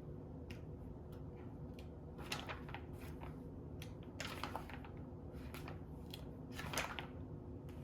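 Scattered light clicks and rustles of hands handling things at a table, over a faint steady hum.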